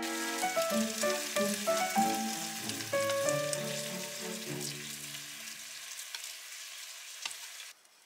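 Eggplant slices sizzling steadily in a pan of oil and soy-mirin sauce over low heat. Soft piano music fades out underneath over the first several seconds, and the sizzling cuts off suddenly near the end.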